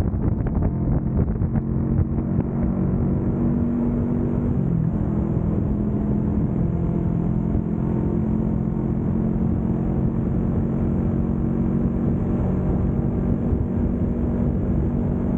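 Kawasaki Vulcan S 650's parallel-twin engine running at a steady cruise, with wind and road rush. The engine note dips slightly in pitch about five seconds in, then holds steady again.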